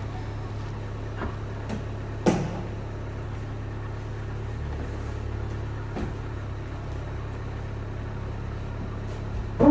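Steady low drone of a car driving, with a few light knocks and a sharper knock about two seconds in and another near the end.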